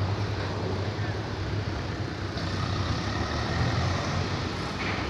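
Swaraj 843 XM tractor's diesel engine running steadily with a low, even drone.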